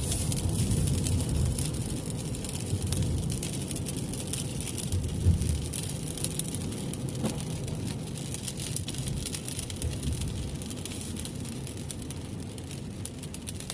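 Road and engine rumble inside a moving car, with rain hissing and ticking on the car. There is one short bump about five seconds in, and the noise slowly gets quieter.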